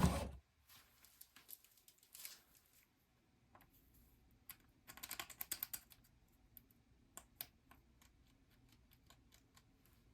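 Faint scattered clicks and small scrapes, with a quick cluster of taps about five seconds in: multimeter test leads being pressed and clipped onto the terminals of a blower motor's run capacitor to measure its microfarads.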